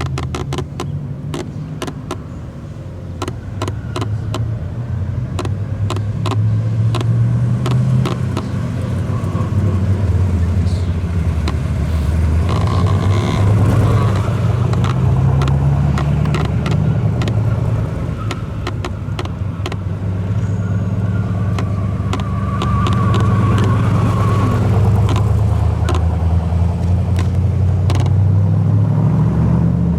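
Large car engine running with a deep exhaust note, rising and easing in pitch several times as the car is driven, with many scattered sharp clicks.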